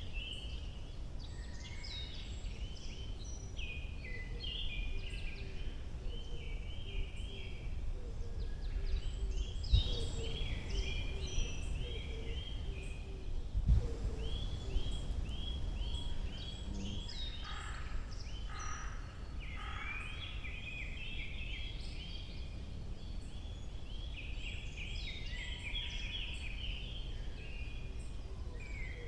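Several wild birds singing in a spring forest, with quick repeated series of chirping notes and trills overlapping throughout. A steady low rumble runs beneath, with two low thumps about ten and fourteen seconds in.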